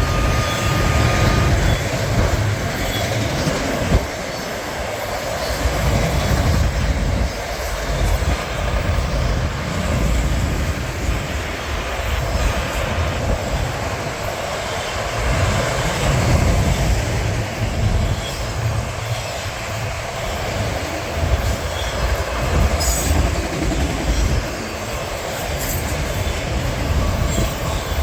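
CSX freight train's cars rolling past on the rails: a steady rumble that swells and eases every second or two. A thin high tone stops about a second and a half in.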